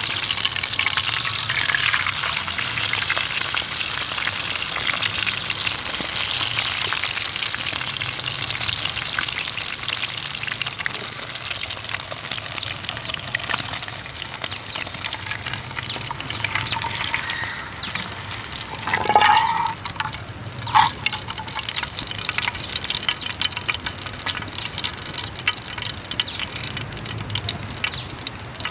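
Steak frying, a steady crackling sizzle. Two short, louder sounds stand out about two-thirds of the way in.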